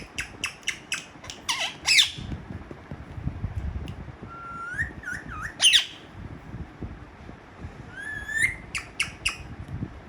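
Parrot squawking and calling. It gives a quick run of short clicks and chirps, then loud squawks about two seconds and six seconds in, with rising whistled calls between them and a few short chirps near the end.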